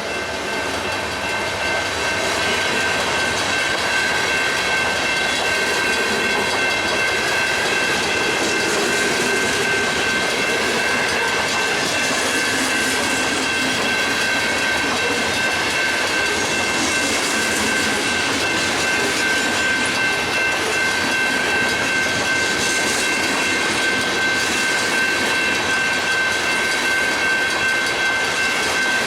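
Freight train rolling past, cars clattering over the rails in a steady loud wash, with a sustained high-pitched ringing tone held throughout.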